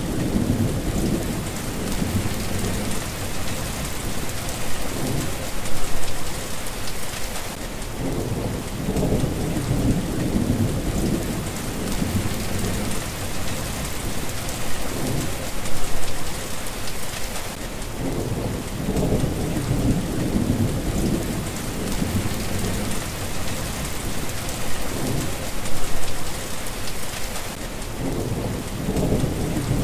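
Steady rain hissing without a break, with low rolls of thunder swelling and fading underneath, again and again.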